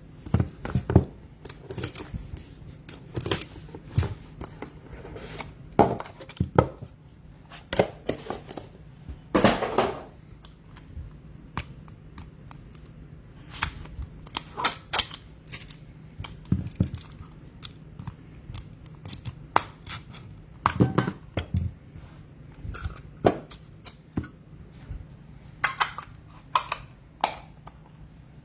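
Trading-card pack wrappers tearing and crinkling, and cards being handled, in scattered short rustles and clicks.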